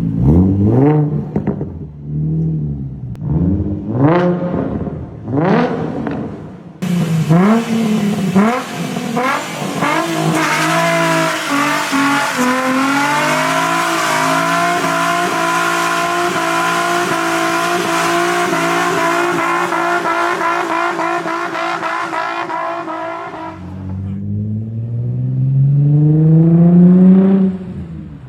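Nissan 350Z's 3.5-litre V6 through an aftermarket 3.5-inch stainless steel exhaust: about five quick throttle blips, then revs climb and hold high and steady for roughly twelve seconds. Near the end the revs drop suddenly, then climb again.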